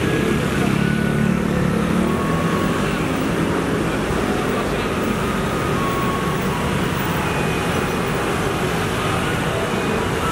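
Garbage truck engine running with a steady low rumble amid street traffic noise.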